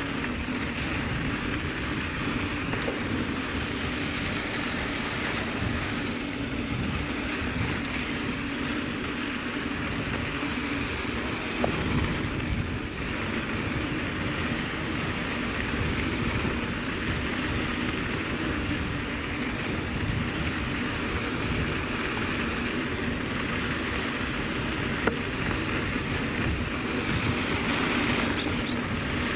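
Mountain bike riding down a sandy dirt trail: steady wind rushing over the microphone and tyre noise on the dirt, with a couple of sharp knocks from the bike going over bumps.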